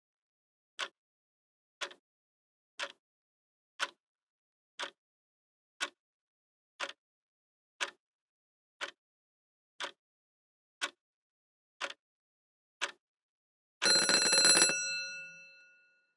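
Clock ticking evenly, about once a second, then near the end a bell rings briefly and its tone fades away over a second or two.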